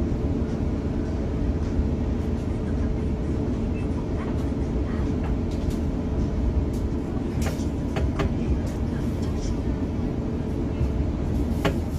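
Steady low rumble inside the cabin of an Airbus A350-900 headed for takeoff, with a few sharp clicks and rattles around two-thirds of the way in and again near the end.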